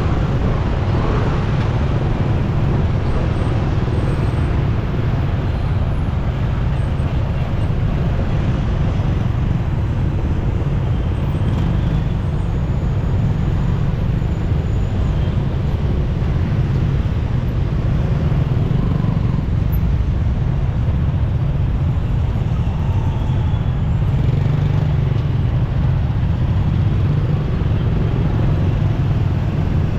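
Steady low rumble of wind and road noise from riding a motorcycle in city traffic, with the sound of surrounding vehicles mixed in.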